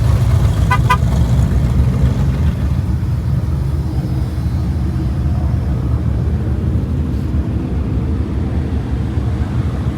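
Steady low rumble of vehicle engines idling, with a short double beep about a second in.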